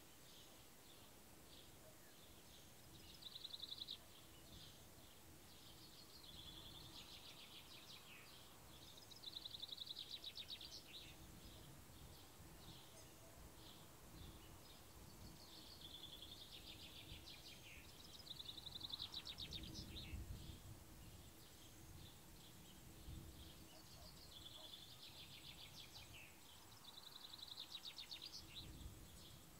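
Faint birdsong: short trilling phrases that come and go every few seconds, over a soft low rumble of outdoor background noise.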